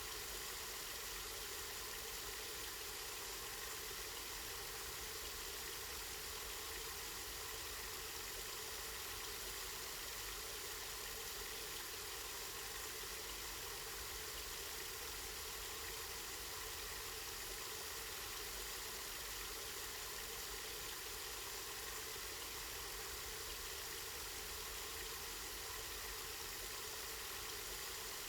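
Water running steadily from a spring, an even unbroken splashing rush.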